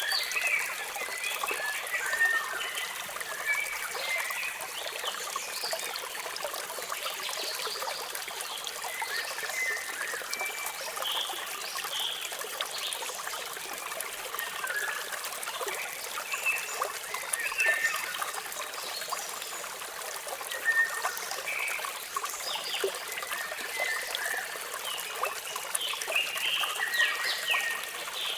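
Water from a waterfall running steadily, with many short bird chirps scattered throughout.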